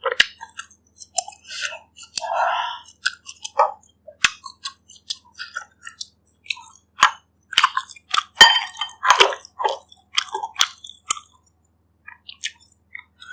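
Close-miked chewing of a person eating bak kut teh, with wet mouth sounds and many small irregular clicks and crunches. The chewing is busiest past the middle and thins out near the end.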